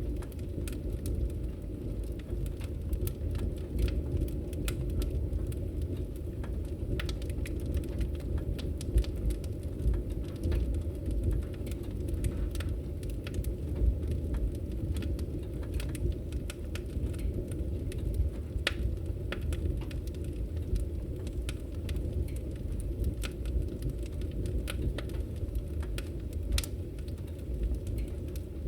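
Fire burning in a fireplace: a steady low rumble of the flames with frequent small, irregular crackles and pops.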